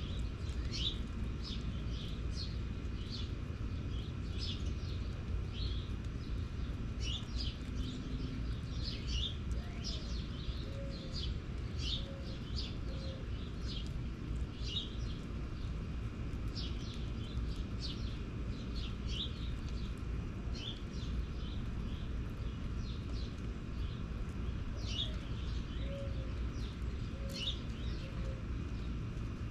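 Small birds chirping in quick, repeated calls, while a dove coos a short series of low notes twice, about ten seconds in and again near the end, over a steady low rumble.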